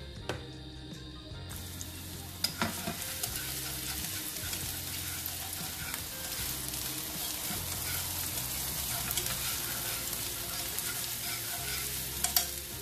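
Chopped shallots and garlic sizzling in hot oil in a frying pan, the sizzle picking up about a second and a half in, as they are sautéed and stirred with chopsticks. A few sharp clicks of the chopsticks against the pan come near the start, a couple of seconds in and near the end.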